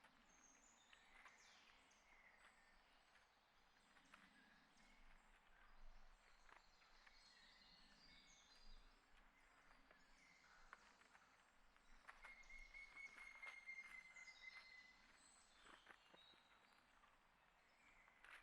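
Faint outdoor birdsong: many short high chirps and calls, with scattered light clicks and taps. A longer whistled note, dropping slightly in pitch, comes in about twelve seconds in and lasts about three seconds.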